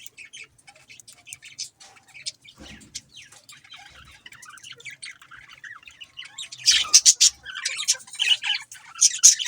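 Budgerigars chirping and chattering: many short, quick chirps and warbles, growing louder and busier about seven seconds in.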